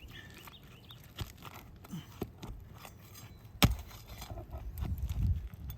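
Flat pry bar and roofing hammer working nails out of asphalt shingles: scattered scrapes and small taps, with one sharp knock a little past halfway and a low rumbling scrape near the end.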